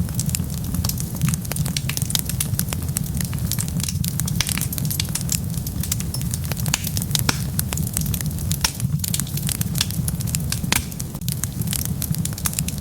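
Wood fire burning with frequent, irregular sharp crackles and pops over a steady low rumble of the flames.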